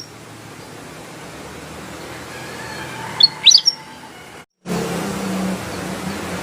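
Kutilang emas bulbul giving one short phrase of quick, rising whistled notes about three seconds in, over a steady low background hum.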